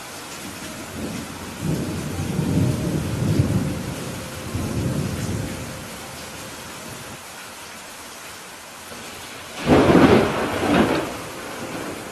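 Steady rain during a thunderstorm, with a low roll of thunder that swells and fades over a few seconds. Near the end comes a sudden, much louder thunderclap with a second crack about a second after it.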